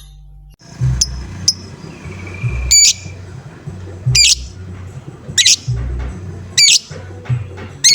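Lovebird giving short, shrill calls, repeated about every second and a quarter, over a low background rumble.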